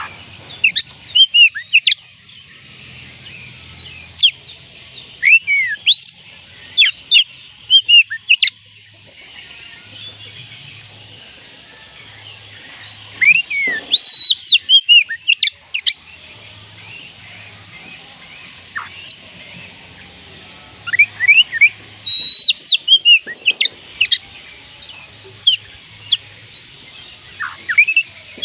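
Oriental magpie robin singing: bursts of short, varied whistled notes and rising and falling slurs, in phrases broken by pauses of a few seconds, over a faint steady hiss.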